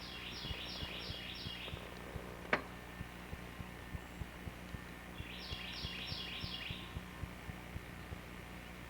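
A songbird sings two short phrases, each about five quickly repeated notes, a few seconds apart. A single sharp crack sounds between them, and faint low ticks repeat about three times a second underneath.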